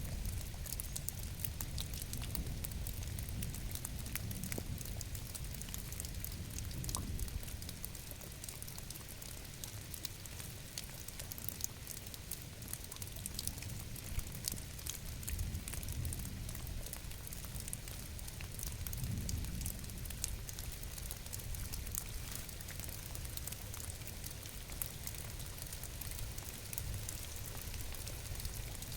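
Steady rain falling: a dense patter of individual drops over a low, steady rumble.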